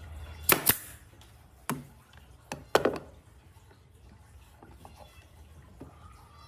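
Five sharp knocks of hard objects striking: a quick pair about half a second in, a single knock near two seconds, then another close pair, some with a short ring; fainter handling sounds follow.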